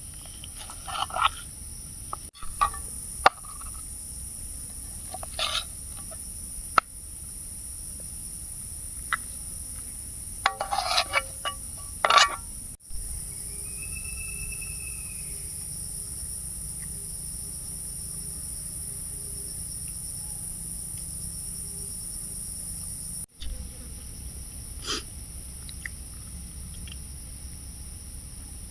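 Insects droning steadily at a high pitch, with scattered clicks and knocks and a few short rustling bursts.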